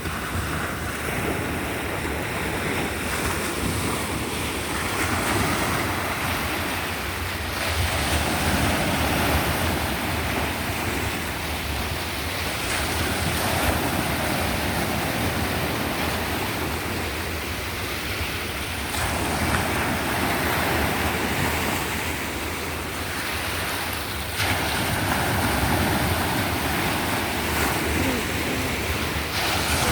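Sea surf: waves breaking and washing on the shore, the rush swelling every five or six seconds, with some wind on the microphone.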